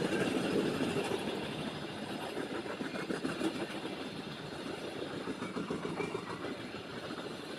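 Express train passing through a station without stopping: a steady rumble of coaches running over the rails, with faint wheel clicks about three seconds in.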